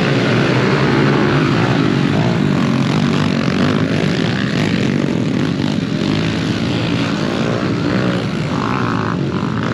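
A pack of pit bikes racing, several small single-cylinder engines buzzing and revving together in a steady overlapping drone.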